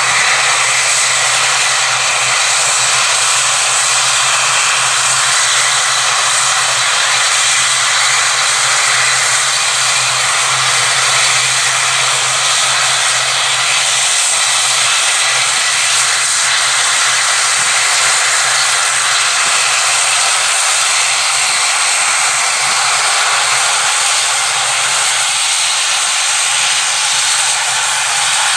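Airplane engines running steadily: a loud, even hiss with a low hum beneath that holds at one level and neither rises nor falls.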